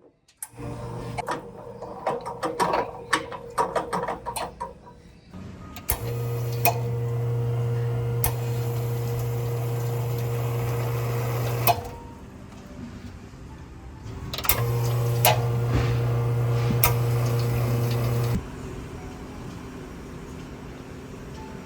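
A small electric motor appliance runs with a steady hum for about six seconds, stops, then runs again for about four seconds. Before it starts there is a spell of light clicking and clattering.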